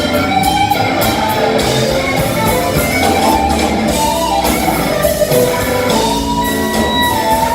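A rock band playing live, with guitar and a singing voice over a steady bass and drums.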